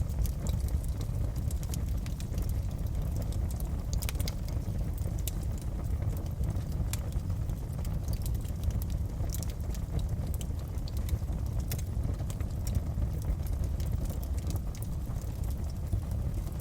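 Wood fire crackling in a fireplace: frequent small, irregular pops and snaps over a steady low rumble of the burning fire.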